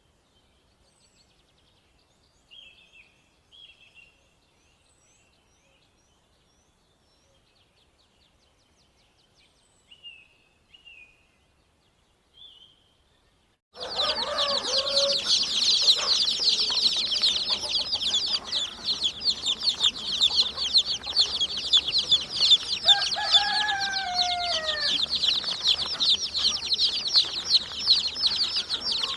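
Chickens calling: faint scattered chirps at first, then, about halfway through, a sudden loud, dense chorus of high peeping and clucking from many birds, with a couple of longer falling calls in the middle of it.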